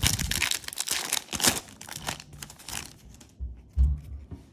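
Yu-Gi-Oh booster pack wrapper crinkling and tearing as it is handled, followed by a couple of dull low bumps near the end.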